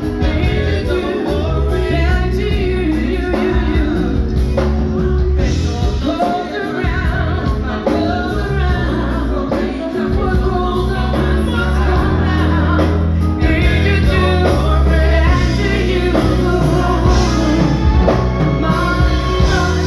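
Live band music with a singer: vocal lines over a steady, heavy bass.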